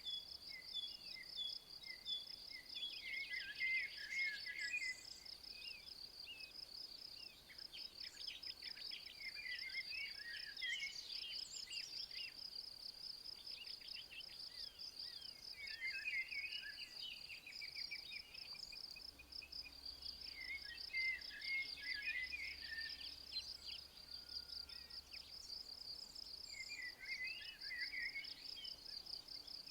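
An insect stridulating in a steady, fast, high-pitched pulsing trill, with short bird song phrases breaking in every few seconds.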